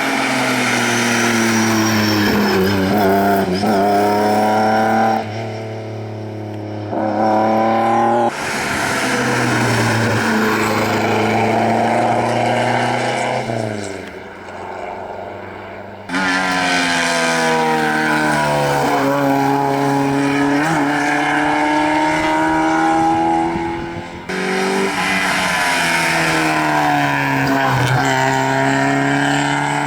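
Rally car engines at full throttle, revving up through the gears with repeated upshifts where the pitch climbs and then drops. The sound changes abruptly several times, as one car follows another.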